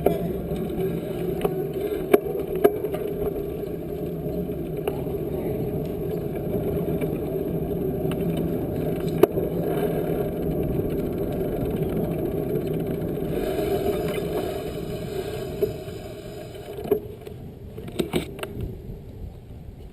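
Steady rushing noise of a ride on a bicycle, tyre and wind noise on the microphone, with a few scattered clicks. It drops away about seventeen seconds in, and a short cluster of clicks follows.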